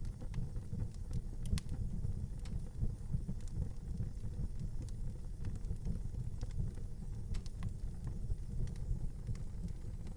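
Fire burning in a fireplace: a steady low rumble of flame with scattered sharp crackles and pops, a couple of louder pops about a second and a half in.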